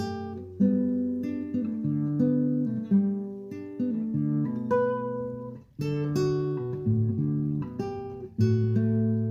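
Background music: acoustic guitar, plucked chords and single notes ringing out, with a brief pause about six seconds in.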